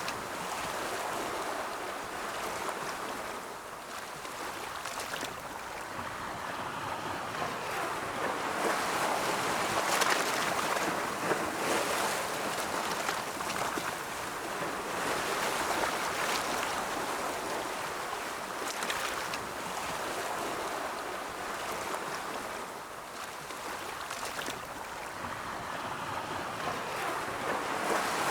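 Ocean waves rolling in and breaking on the shore: a continuous rushing wash that swells and eases over several seconds, with brief splashes where waves break. It is loudest in the middle stretch.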